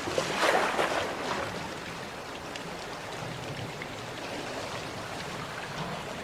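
Sea waves washing in: one wave splashes loudly in the first second or so, then a steady wash of water.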